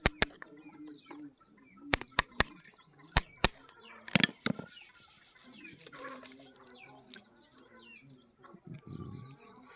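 A series of sharp clicks or knocks, some in quick runs of three, with birds chirping in the background.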